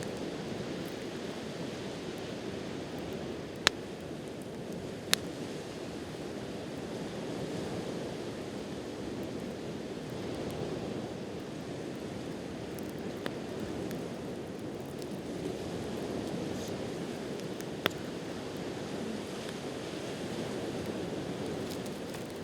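Steady wash of sea waves on the shore, with a campfire's burning wood giving a few sharp, isolated pops.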